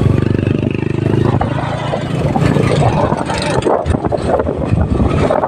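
Motorcycle engine running with a steady note, which gives way after about a second to rough wind buffeting on the microphone over the engine's rumble while riding.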